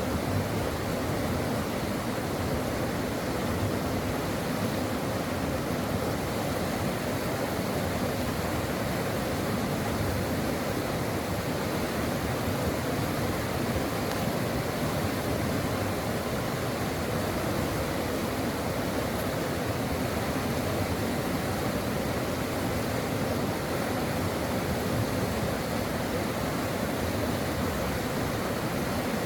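A mountain stream rushing over rocks: a steady, even rush of flowing water.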